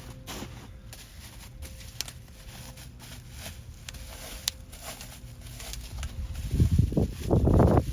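Packaging being handled and opened: scattered clicks and crinkles, with a louder spell of rustling near the end.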